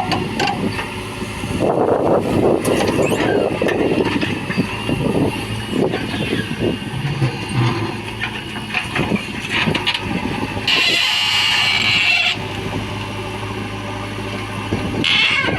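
Heavy diesel machinery at work: a backhoe loader loading mud into a tipper truck. The engine hums steadily throughout, with a burst of clattering and scraping a couple of seconds in, scattered knocks after it, and a hiss lasting about a second and a half near the end.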